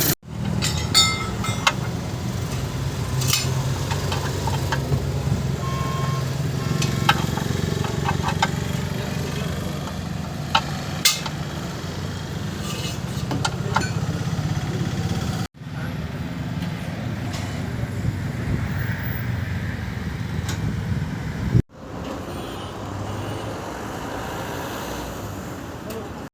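Skoda Laura engine idling, with sharp clicks and knocks over its steady hum: an engine that has a knocking problem and blows white smoke. Two abrupt cuts break the sound.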